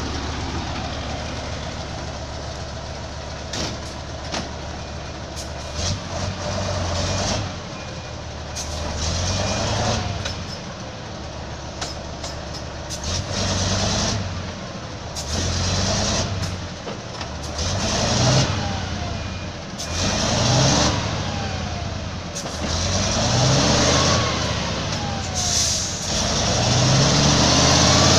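Heavy truck engine revving up and falling back over and over, with scattered knocks and clatter between the revs.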